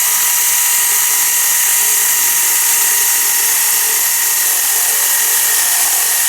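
Power tool motor running steadily with a high whine, driving a nut down while the CVT clutch housing is bolted back together.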